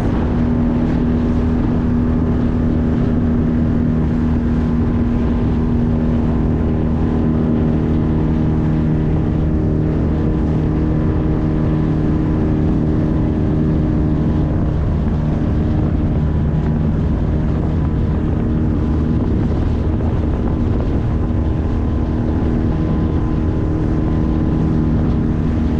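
9.8 HP outboard motor running at a steady speed as the small boat moves across open water, one even engine note that holds its pitch throughout, with hull and water noise beneath it.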